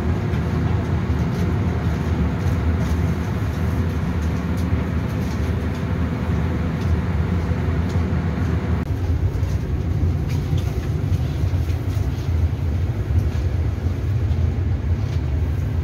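Steady low rumble inside a Taiwan Railway EMU3000 electric train carriage, the running noise of the train, with its higher hiss dropping away about nine seconds in.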